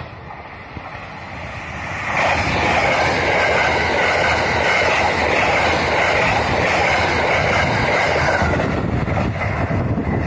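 JR West 683 series 4000-subseries limited express electric train running through the station at speed. Its wheels on the rails build to a loud, steady rush about two seconds in and stay loud as the carriages go by.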